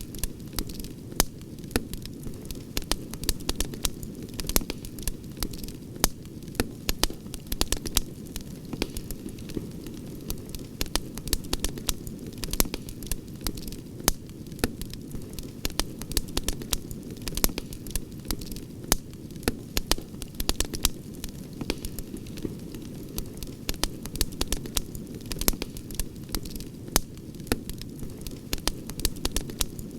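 Campfire crackling: frequent sharp pops and snaps, several a second, over a steady low rumble.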